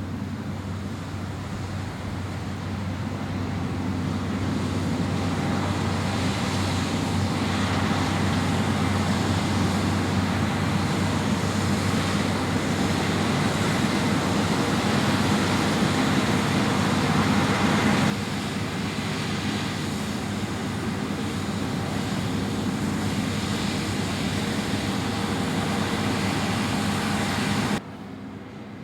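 A vehicle engine running steadily with a low drone, building in loudness over the first few seconds. The sound changes abruptly about two-thirds of the way through and drops sharply near the end.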